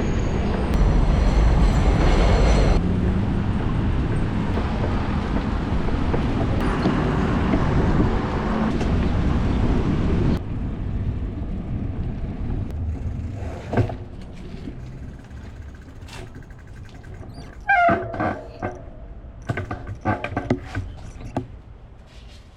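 Steady rumbling street-traffic noise that drops off suddenly about ten seconds in. Quieter noise follows, with scattered clicks and a brief warbling squeal near the end.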